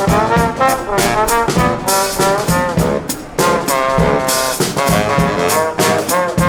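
Brass band playing an upbeat tune: trumpets and trombones in harmony over a steady drum beat.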